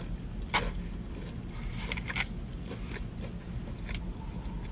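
Chewing a crispy fried Korean cheese corn dog with the mouth closed: a few short crunches and mouth clicks, about half a second, two seconds and four seconds in, over a steady low rumble.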